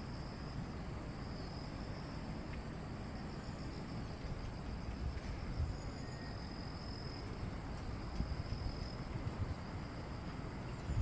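Crickets singing: a steady, slightly pulsing high trill throughout, joined about two-thirds in by a second, higher and faster pulsing chirp that lasts about three seconds, over a low wind rumble.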